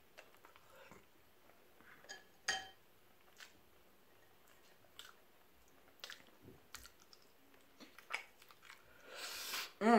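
A person eating seafood boil with crab legs: soft chewing with scattered small clicks and crunches, one louder click about two and a half seconds in, and a brief hissing noise near the end.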